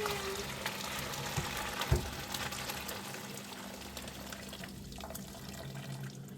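Steady rush of running water, thinning out after about four and a half seconds, with a single knock about two seconds in.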